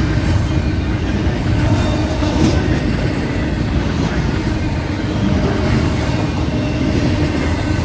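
Norfolk Southern freight train passing close by, a steady loud rumble of its wheels on the rail.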